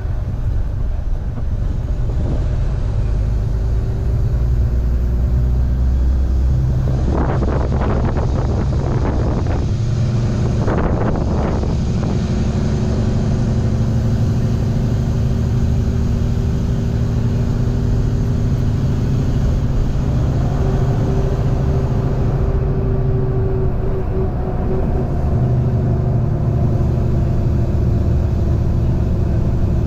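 Semi-truck's diesel engine running under way while pulling a loaded refrigerated trailer, a steady low rumble that shifts slightly in pitch. It turns rougher and louder twice, about seven and ten seconds in.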